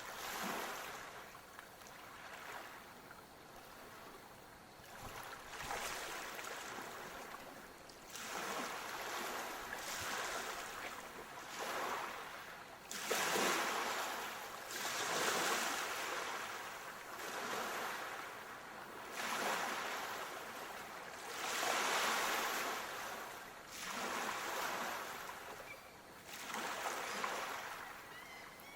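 Small waves washing in and out, with a surge of water noise every two seconds or so.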